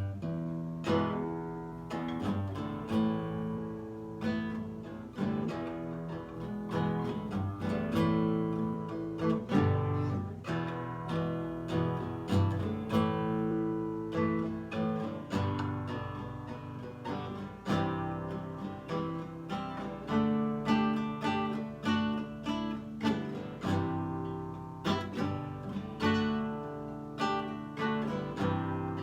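Nylon-string acoustic guitar played without singing, chords and single notes plucked and strummed in a steady rhythm.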